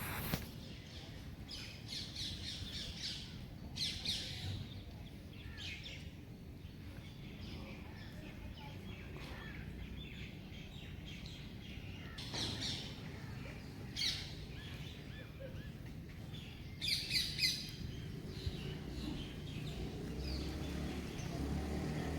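Birds chirping and calling in scattered short bursts, the busiest run of quick notes about three quarters of the way through, over a steady low background rumble.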